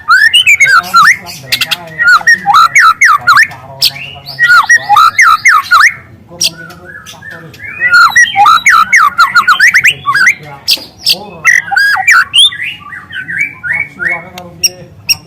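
Juvenile white-rumped shama singing loudly: long runs of rapid chirps and whistled notes in canary-like bursts, broken by short lighter pauses about 4 and 6 seconds in and a softer, sparser stretch in the second half.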